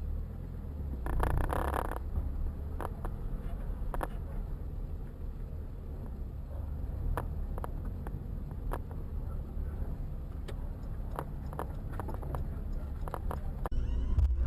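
Steady low engine and road rumble inside a moving car, with scattered small clicks and rattles and a brief louder rustle about a second in; the sound changes abruptly near the end.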